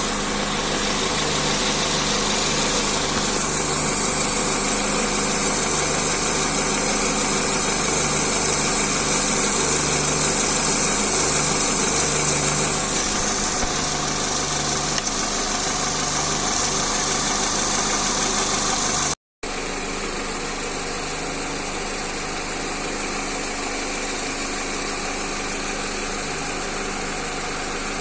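Car engine idling steadily, its accessory drive belt newly replaced and its idler pulleys cleaned and lubricated. The sound breaks off for an instant about two-thirds of the way through, then the idle carries on slightly quieter.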